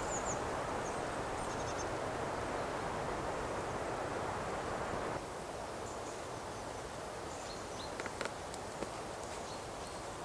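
Outdoor ambience: a steady rushing noise with a few short high chirps at the start. It drops suddenly to a quieter background about halfway through, with a few light clicks near the end.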